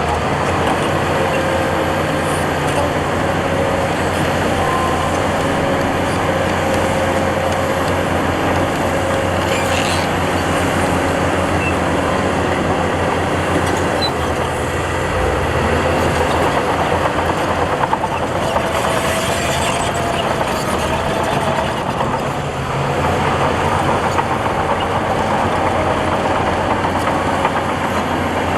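Heavy diesel earthmoving machinery running steadily at work, a continuous engine drone with thin wavering whines over it.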